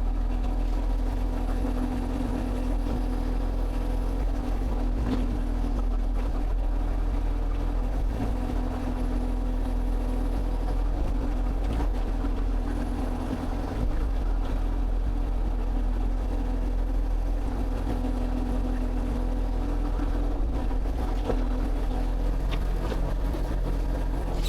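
Excavator engine running steadily, a continuous low drone.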